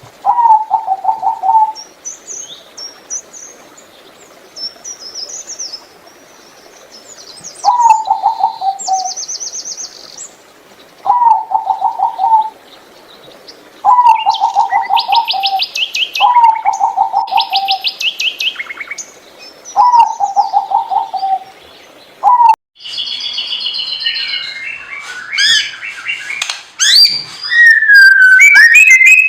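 Zebra dove (turtledove, Geopelia striata) cooing in repeated rapid, rattling phrases that step down in pitch, one every two to three seconds. Thin high chirps and trills of small birds sound between them. After an abrupt cut near the end, a burst of busy high-pitched chirping takes over.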